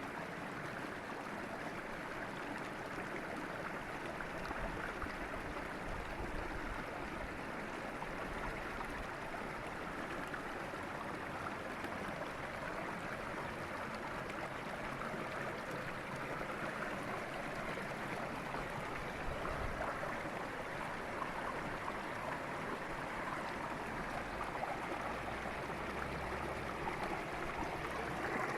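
River water flowing over rocks: a steady rushing and gurgling.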